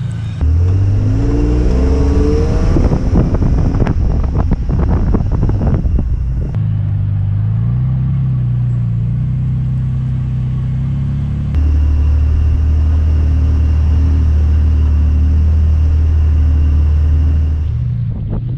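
Off-road truck engine revving and running at crawling speed on a rocky trail. Clicks and knocks sound in the first few seconds. The engine note changes abruptly twice, about six and a half and eleven and a half seconds in.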